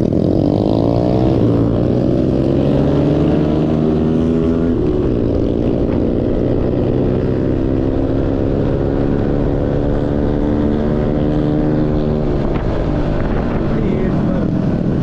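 A vehicle engine running steadily, its pitch falling in the first second and shifting again a few times as the revs change.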